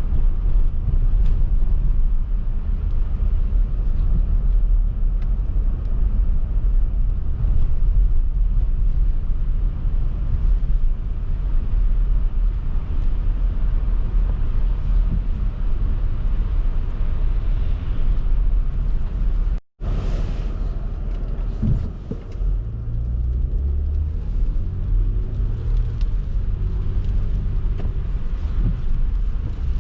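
Car driving on a snowy road: a steady low rumble of engine and road noise. About twenty seconds in there is a brief dropout, after which the engine's tone comes through more clearly.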